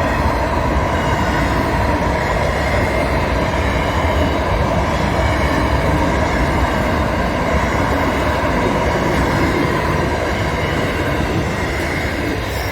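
A train running on the rails: a steady, loud rumble of wheels on track with a faint whine, easing slightly near the end.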